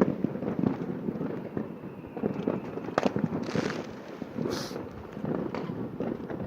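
Fireworks going off: a dense run of crackling pops, with sharper bangs at the start and about three seconds in, and short hissing bursts partway through.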